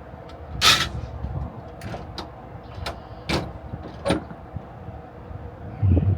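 Flatbed load-securing gear being handled and put away: a series of about six sharp knocks and clacks, then a heavier low thump near the end.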